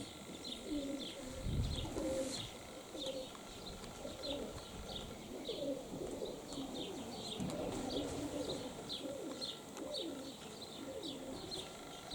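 Domestic pigeons cooing over and over, with a small bird chirping about twice a second above them.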